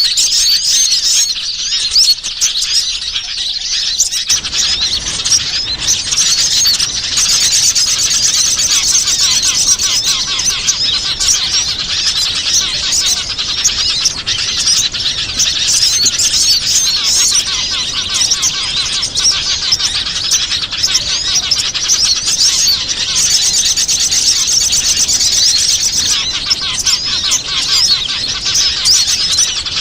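A dense chorus of many small birds chirping and twittering rapidly over one another, with no let-up: a pikat bird-lure recording used to attract wild small birds.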